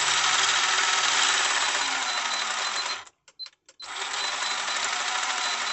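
Speed Passion 7.5 brushless motor spinning the buggy's drivetrain steadily with a high whine. It cuts out about three seconds in, stutters on and off a few times, then runs steadily again.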